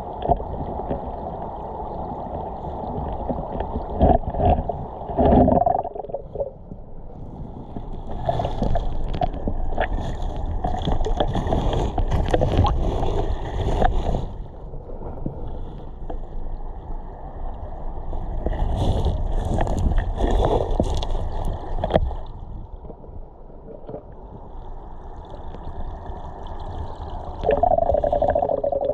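Water gurgling and sloshing close to the microphone, rising and falling in surges, with a few sharp knocks.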